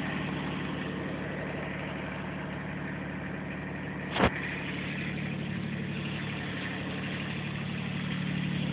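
Tractor engine idling steadily, with one sharp knock a little past the middle.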